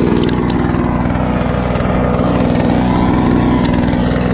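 Small 2 hp outboard motor running steadily at trolling speed, an even motor drone.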